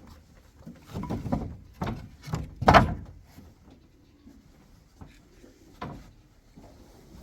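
A run of knocks and thumps, the loudest about three seconds in, followed by a few fainter ones.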